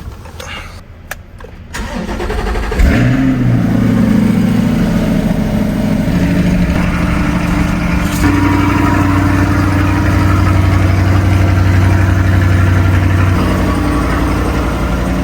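Car engine starting about three seconds in, then running steadily; its note shifts around eight seconds in and again near the end.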